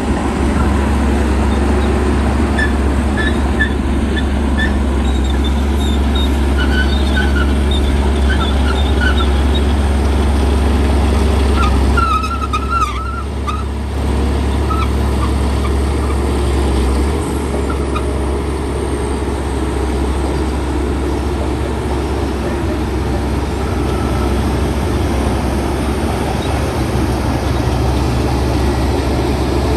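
Heavy diesel engine of earthmoving machinery running steadily with a deep rumble. A few short high-pitched squeaks come through in the first half.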